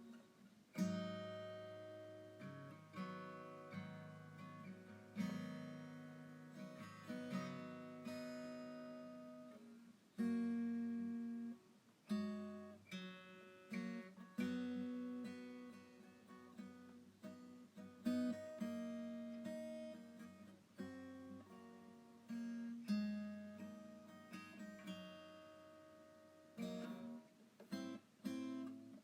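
Background music: a slow, gentle acoustic guitar piece with chords and single notes plucked and left to ring out.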